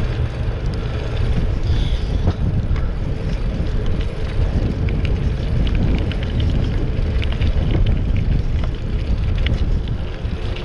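Wind rushing over a camera microphone while riding a fixed-gear bicycle, with rumble from the tyres on a bumpy road and scattered small rattling clicks.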